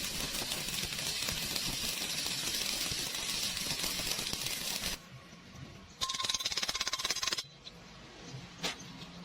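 MIG welding arc crackling steadily for about five seconds, stopping, then striking again for a shorter burst of about a second and a half.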